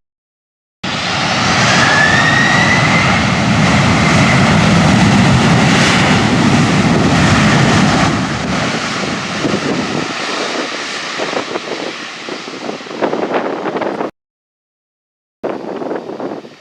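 Jet airliner's engines, loud for several seconds and then fading, with a whine rising in pitch about two seconds in. The sound starts and stops abruptly at edit cuts.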